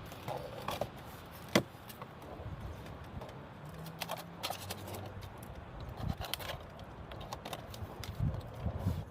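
Scattered clicks, knocks and rustles of a package being opened and parts handled, with one sharp knock about a second and a half in.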